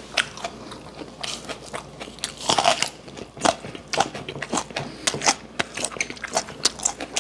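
Close-miked crunching and chewing of a whole raw green onion stalk, bitten off and chewed in irregular crisp crunches.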